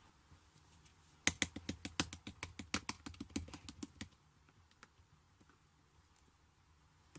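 Slime being squeezed and poked, giving a quick run of small sharp clicks and pops for about three seconds before it goes quiet.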